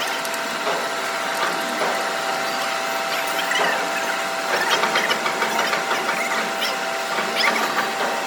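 A machine running steadily with a constant hum, overlaid by irregular clicking and scraping, busiest around the middle.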